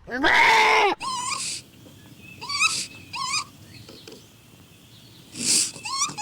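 Animal calls: a loud, drawn-out call falling in pitch, then short rising squeaky calls repeated every half second or so, with a brief rough burst of noise near the end and a quick run of the squeaks after it.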